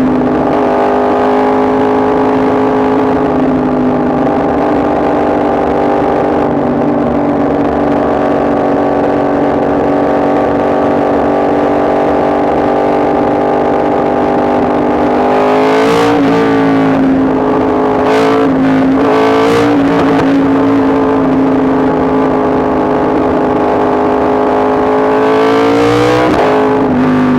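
Yamaha MT-10 SP's crossplane inline-four engine running under way at steady revs. About halfway through, the revs rise and drop sharply several times in quick succession, and once more near the end.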